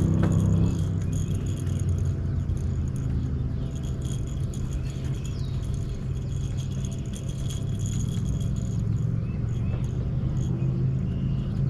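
Boat motor running steadily at a constant low hum, with some light rattling on top.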